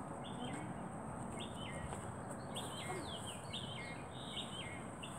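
Birds chirping: short, repeated calls, each a high note that steps down in pitch, about two a second and overlapping, over a steady low background hiss.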